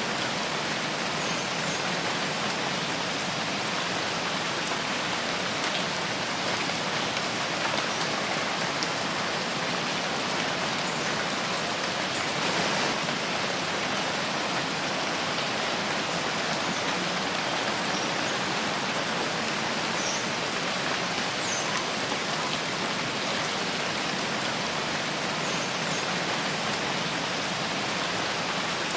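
Steady rain: an even, unbroken hiss of many drops falling.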